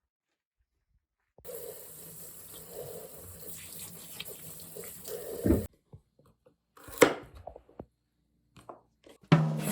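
Water running from a tap into a sink for about four seconds, then cut off, followed by a sharp knock and a few small clicks. Music starts near the end.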